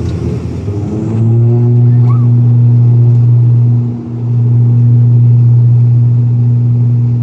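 ATR 72 twin turboprop engines and propellers run up to takeoff power: about a second in, the sound jumps to a loud, steady low drone with a higher steady tone above it, dipping briefly about four seconds in.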